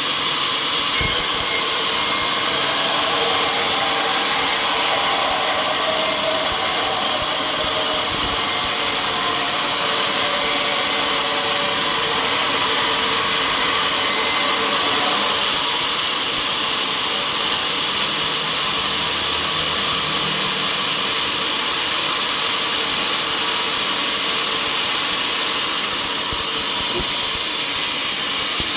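Sawmill machinery running steadily: a loud, even hiss with faint steady whining tones underneath.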